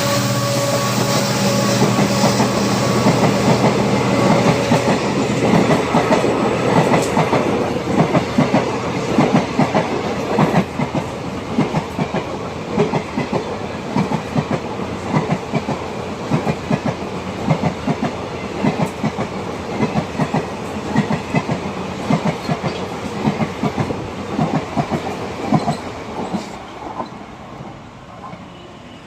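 Passenger train rolling past at speed, its wheels clicking over the rail joints in a steady clickety-clack over the rush of the coaches. The sound fades away near the end.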